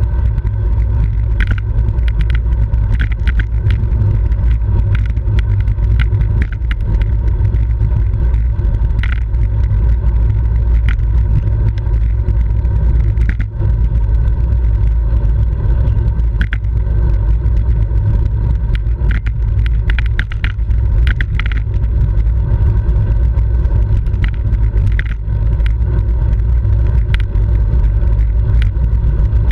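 Steady loud rush of wind and road rumble from a road bicycle riding at race speed, heard on a bike-mounted camera's microphone. Scattered sharp clicks and knocks from the bike and road come at irregular moments throughout.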